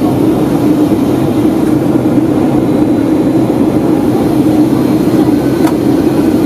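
Steady, loud cabin noise aboard a Boeing 757-200 during descent: the hum of its Rolls-Royce RB211 engines mixed with the rush of airflow.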